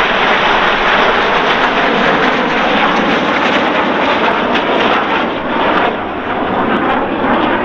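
Red Arrows BAE Hawk T1 jets flying past, a loud, steady jet noise that dips slightly and swells again near the end.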